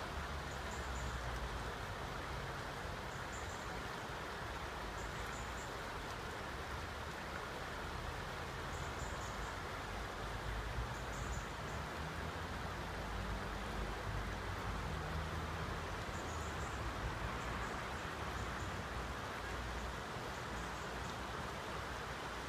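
Steady rush of flowing floodwater from the River Wey in spate, with a low rumble that comes and goes and short high bird chirps every few seconds.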